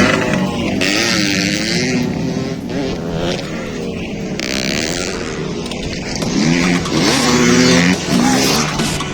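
Motocross dirt bike engines revving, their pitch rising and falling over and over, with bursts of hiss.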